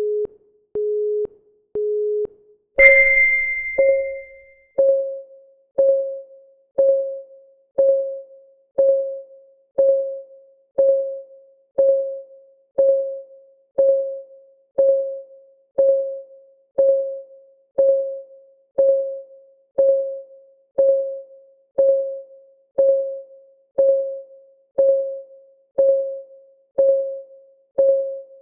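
Countdown timer starting: three short electronic beeps a second apart, then a bell-like chime about three seconds in, followed by ticking once a second, each tick a short pitched tone that quickly dies away.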